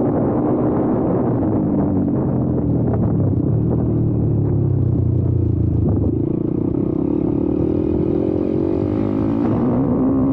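YCF Bigy 190 Daytona pit bike's single-cylinder four-stroke engine running while ridden. The revs ease off in the middle, then climb again and drop back near the end.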